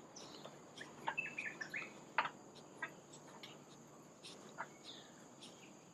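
Faint forest ambience: a steady high insect drone with scattered short bird chirps, including a quick run of notes about a second in.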